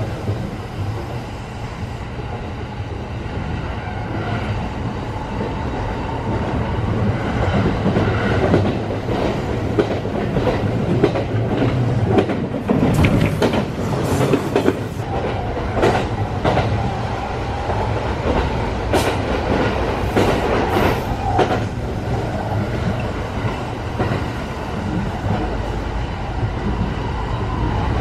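Rapid express commuter train running at speed, heard from inside the passenger car: a steady rumble of wheels on track. Several sharper clacks from the wheels come about halfway through and again a little later.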